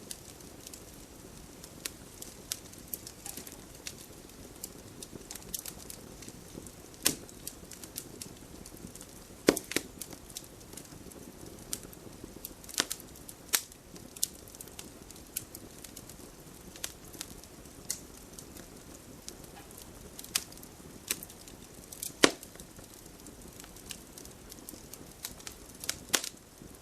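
Wood fire in a fireplace crackling, with a soft steady hiss and irregular sharp pops, a few of them louder.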